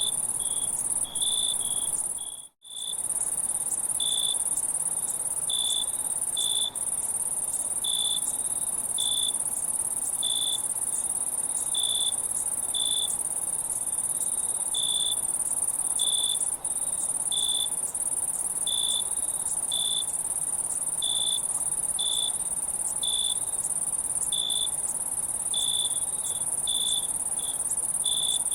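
Insect chorus at night: a steady high-pitched shrill drone, with a cricket chirping over it about once a second. The sound cuts out briefly about two and a half seconds in.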